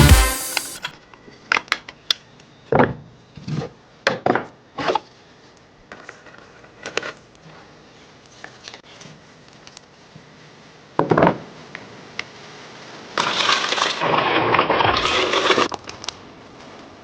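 Scattered sharp clicks and knocks of gun parts being handled during a restoration, with a louder knock about eleven seconds in. Near the end comes a harsh rasping noise lasting about two and a half seconds.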